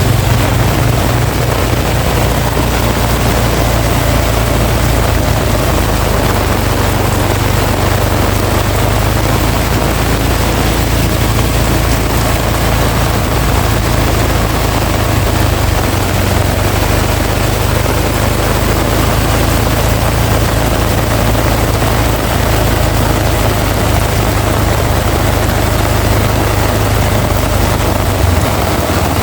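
Heavy rain pouring steadily, a dense unbroken hiss, under a strong wind that adds a steady low rumble.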